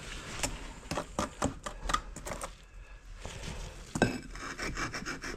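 Brick masonry work: irregular clinks, taps and scrapes of a steel trowel against bricks and mortar.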